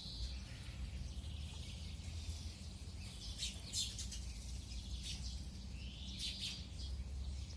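Sparrows and other small birds chirping in short scattered calls, with a cluster of chirps near the middle and rising calls near the end, over a steady low background rumble.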